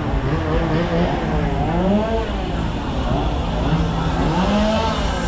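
Chainsaw engines idling and being revved repeatedly, the pitch swooping up and falling back about every one to two seconds between stretches of steady idle.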